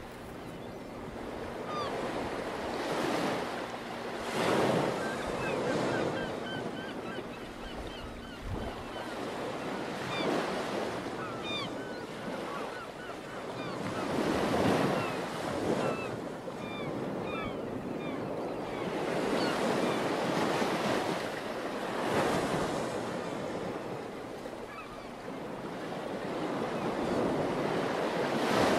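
Ocean surf: waves breaking and washing in, swelling and easing every few seconds, with scattered short high chirps.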